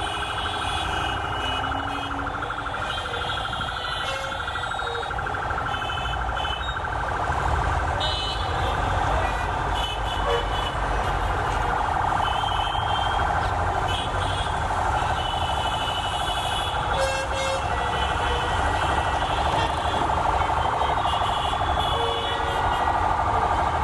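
Silk City Express train running on the rails: a steady rumble with a high, steady ringing tone over it, getting slightly louder after about eight seconds.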